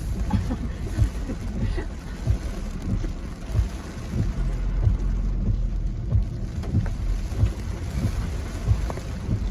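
Rain on a taxi and its tyres on the wet road, heard from inside the cab as a steady low rumble with many small irregular knocks.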